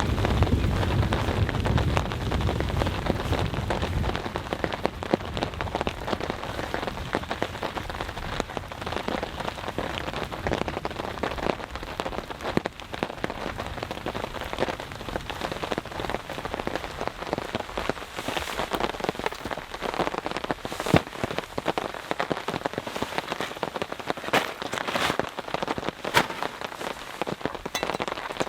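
Heavy thunderstorm rain falling steadily, with many individual drops striking close by. A low rumble of thunder dies away in the first few seconds.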